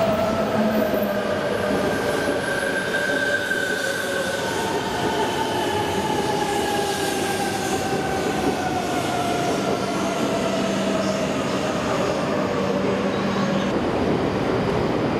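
E926 'East i' Shinkansen inspection train running into the platform and braking to a stop. Its whine falls slowly in pitch as it slows, over steady rolling and wheel noise, and settles near the end as the train halts.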